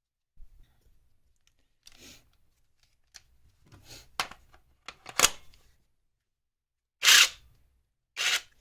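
Hard plastic clicks and knocks from a cordless impact driver being handled after reassembly, then two short, louder scraping noises near the end.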